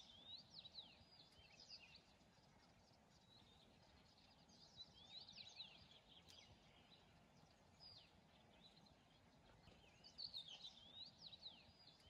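Faint birdsong: quick, high chirping phrases in three short spells, over a faint steady hiss.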